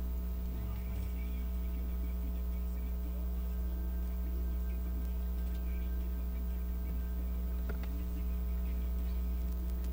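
Steady electrical mains hum with a ladder of overtones, unchanging, with a couple of faint small clicks.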